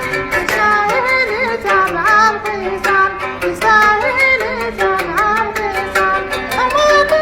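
A homemade oud plucked in a steady, quick rhythm, with a man singing over it in a high voice with wavering ornaments, imitating a female singer. The singing comes in about a second in.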